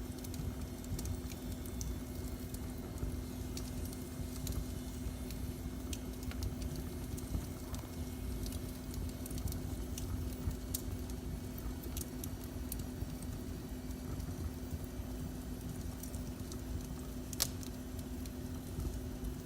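Wood fire in a fireplace crackling, with scattered small pops and one sharper pop near the end, over a steady low rumble and a faint constant hum.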